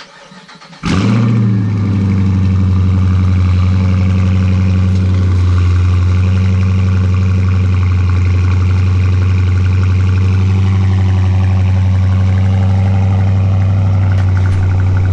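A 2017 Dodge Charger Daytona's V8 starting with a sharp flare about a second in, then settling into a steady, loud idle, its exhaust still fitted with the stock mid mufflers.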